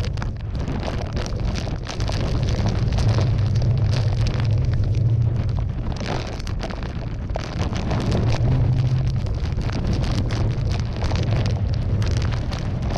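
Typhoon eyewall wind gusting, buffeting the microphone with a heavy rumble that swells and eases every few seconds, with wind-driven rain lashing.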